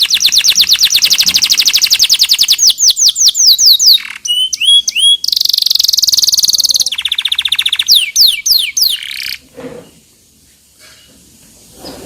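Canary singing a fast rolling trill of rapidly repeated notes, broken by runs of falling whistled sweeps and short chirps. The song stops about nine and a half seconds in.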